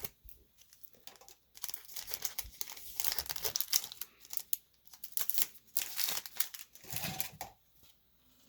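Trading card pack wrapper being torn open and crinkled, in an irregular run of crackles over several seconds that stops near the end.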